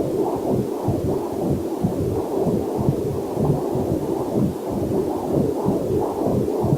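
Heartbeat and blood-flow sounds picked up by a fetal Doppler heart monitor: a rapid, steady train of muffled whooshing pulses, several a second.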